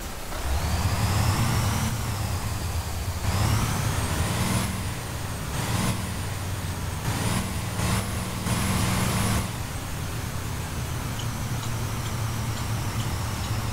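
2016 Blue Bird Vision school bus under way: its engine runs steadily with a high whine that rises in pitch several times in the first half, as it pulls away through the gears, then settles to a steady run.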